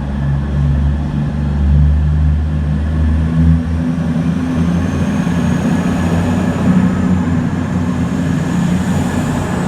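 Class 221 Voyager diesel-electric train pulling away from a station, its underfloor diesel engines running with a loud steady low hum that eases after about three and a half seconds. A faint high whine rises slowly in the second half as the train gathers speed.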